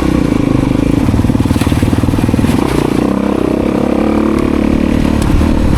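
Dirt bike engine running steadily on the throttle, close and loud, with a fast even pulse.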